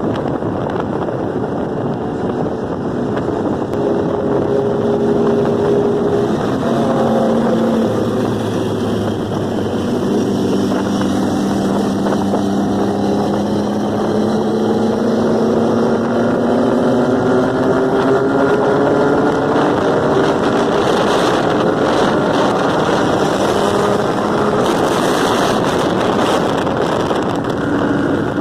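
Motorcycle engine running under way, with heavy wind rush on the microphone. The engine note climbs gradually through the middle stretch.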